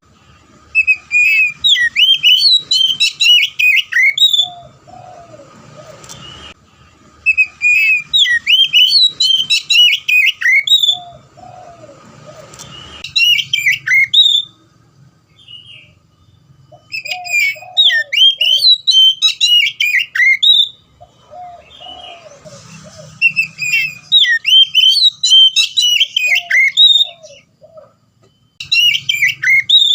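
Oriental magpie-robin (kacer) singing loudly in full song: bursts of rapid whistled and chirping phrases, each a few seconds long, with short pauses between, repeated about five times.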